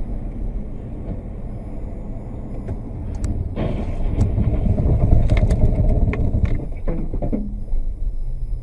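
Car on the road heard from inside, engine and tyre noise rumbling. It swells louder about halfway through, then drops back, with a few small sharp clicks.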